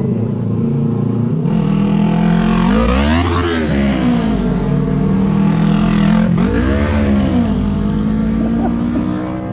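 Two motorcycles riding past one after the other, their engine pitch climbing and then dropping as each goes by: the first about three seconds in, the second a few seconds later. A steady engine drone runs underneath.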